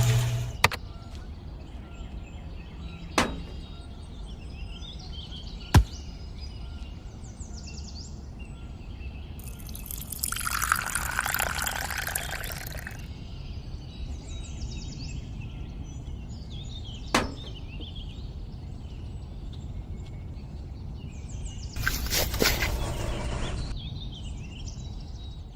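Outdoor ambience with small birds chirping over a steady low rumble, broken by a few sharp clicks and two bursts of rushing noise, about ten seconds in and again near the end.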